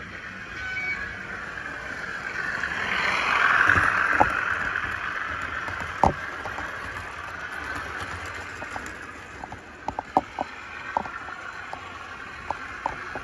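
Model train running past on a layout: a rushing hum that swells to a peak about three to four seconds in and then fades, with scattered sharp clicks.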